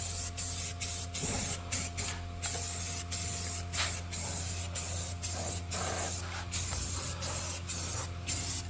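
Aerosol can of rust-repair spray paint hissing in short repeated bursts, about two a second, as the nozzle is pressed and released, over a faint steady low hum.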